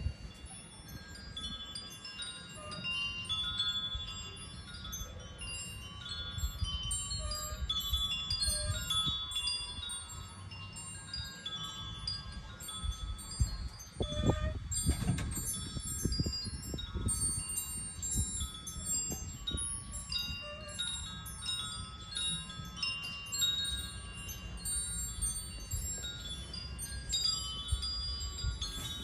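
Wind chimes ringing continuously as the wind blows them, many overlapping high tones. Low wind rumble underneath, gusting strongest about halfway through.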